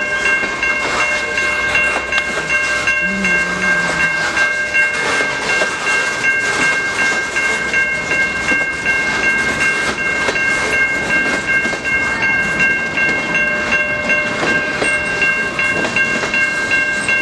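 A freight train's cars rolling past with steady clacking and rattling of wheels on the rails, while a Safetran Type 3 electronic crossing bell, set to its low tone, rings without a break.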